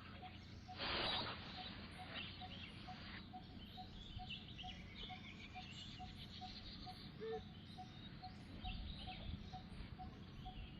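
Birds chirping in outdoor ambience, with a faint note repeating about three times a second and a short burst of rustling noise about a second in.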